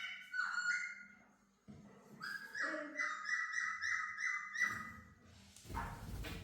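Laughingthrush calling: a few stepped whistled notes, then a quick run of about eight repeated notes at about four a second. A short rustling noise follows near the end.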